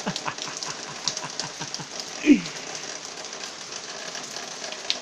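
Steady rain falling, heard as an even hiss dotted with small drop ticks. About two seconds in, a short tone slides down in pitch.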